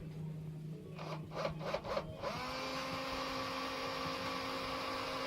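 Gas stove burner being lit: about five quick igniter clicks, then the burner catches at a little past two seconds and runs with a steady hiss and hum, showing the repaired burner works.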